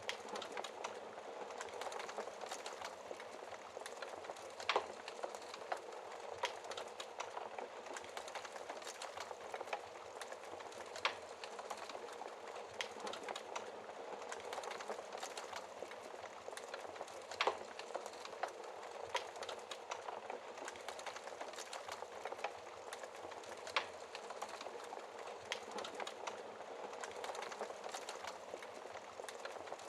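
Wood fire crackling: a steady dense patter of small crackles with a sharper pop every few seconds.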